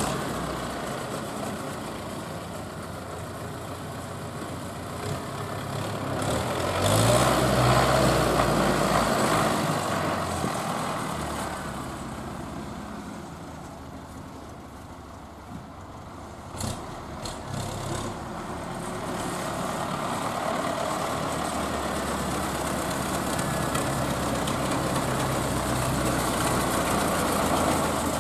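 MTZ-82 tractor's four-cylinder diesel engine running. It grows louder about six seconds in, fades a little past the middle, where a few knocks are heard, then runs steadily again.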